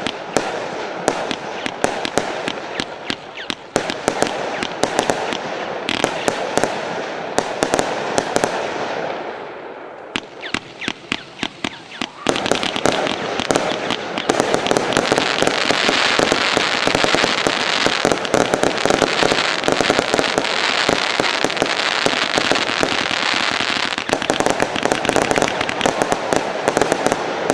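Lesli 'Code Red' 144-shot compound firework battery firing a rapid, dense string of shots and crackling bursts. It eases off about ten seconds in, then picks up into a louder, thicker barrage that runs until near the end.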